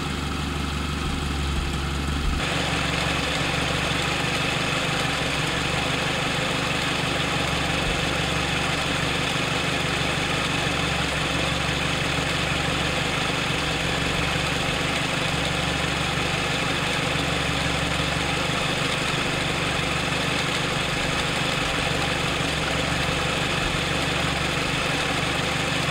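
FSO Warszawa's freshly overhauled M20 engine, a four-cylinder side-valve (flathead) unit, running steadily on a test stand. About two seconds in, the sound grows slightly louder and fuller.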